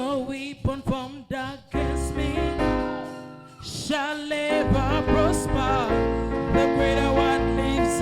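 Live gospel music: a solo singer's melismatic runs with wide vibrato over sustained keyboard chords and bass. The band thins out and the level dips about three and a half seconds in, then the full band comes back in under the singing.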